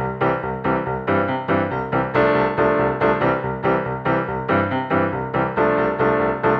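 Piano music, in a steady flow of notes struck a few times a second.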